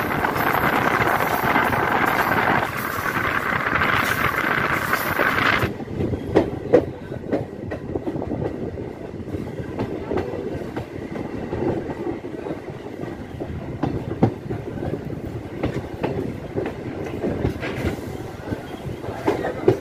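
MEMU train running at speed, heard from the open coach door: a loud steady rush of wheel and wind noise. About six seconds in it changes suddenly to the quieter sound of the train rolling slowly alongside a platform, with wheels clicking and knocking over the rail joints.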